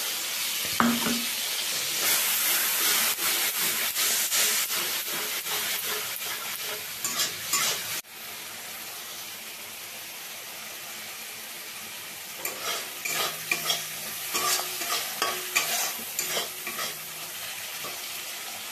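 Ground mustard, ginger, garlic and green chilli paste sizzling in hot oil in a metal kadai, stirred and scraped against the pan with a flat metal spatula in two bouts of strokes, as the masala is fried down. The sizzle turns quieter about eight seconds in.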